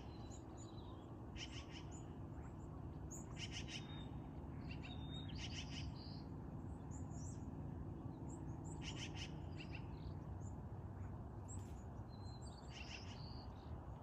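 Wild birds calling: about half a dozen short bursts of rapid high notes a few seconds apart, with scattered single chirps between them, over a steady low background rumble.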